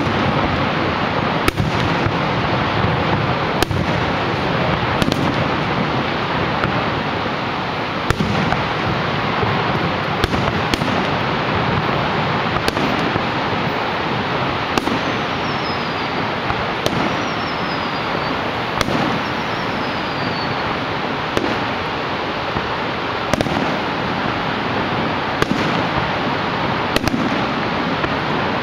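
Distant aerial fireworks bursting, a sharp bang about every two seconds, over a steady rushing noise. About halfway through, three short falling whistles follow one another.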